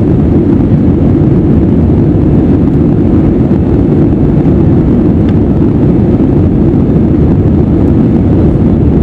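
Steady, loud low rumble of an Airbus A320 in its climb after takeoff, the engines and rushing air heard from inside the cabin.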